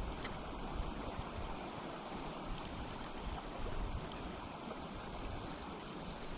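Steady rush of river water flowing, the river running high with floodwater.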